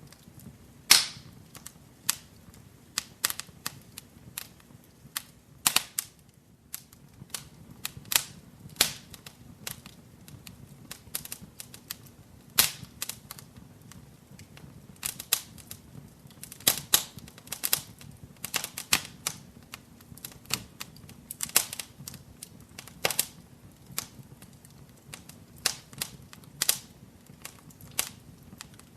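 Wood fire in a fireplace crackling: irregular sharp pops and snaps, several a second and some much louder than others, over a faint steady low rumble of the flames.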